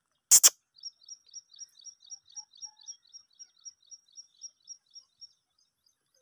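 A short, loud burst of noise just after the start, then a bird chirping: a quick run of short, high notes, about four a second, that fades away over some four seconds.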